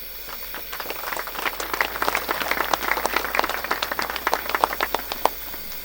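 Audience applauding: a short round of clapping that builds in the first second, carries on and dies away about five seconds in.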